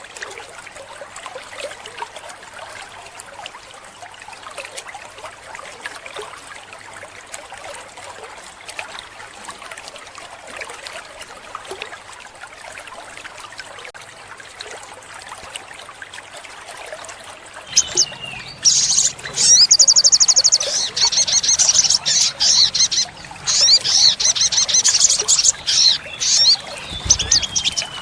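Trickling water, then, about two-thirds of the way in, an olive-backed sunbird starts singing loudly: high, rapid trills and sharp chips, with a few falling slurred notes.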